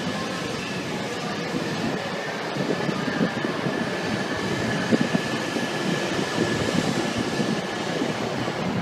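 Shinkansen train moving along the platform at low speed: steady running noise with a thin, steady whine and irregular low knocks from the wheels over the track.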